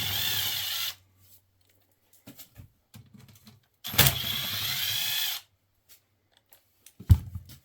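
Power drill-driver with a 10 mm socket running out two bolts from the Yamaha RT100's carburetor mounting, in two whirring bursts of about one and one and a half seconds. A short knock follows near the end.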